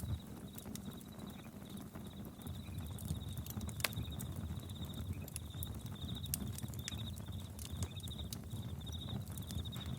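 Campfire crackling, with sharp irregular pops over a low steady rumble of burning wood. Crickets chirp over it in short, rapid pulsing trills.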